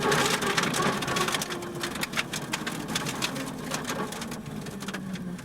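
A rally car's engine fading away just after it has passed, under a dense, irregular crackle of clicks that dies down toward the end.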